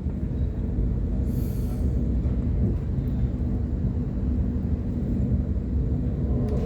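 Waratah electric train heard from inside, running slowly: a steady rumble of wheels on track with a low hum from the train. A brief hiss about a second and a half in.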